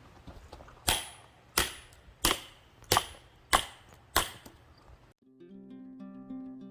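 Six sharp knocks, evenly spaced about two-thirds of a second apart, then acoustic guitar music starts suddenly about five seconds in.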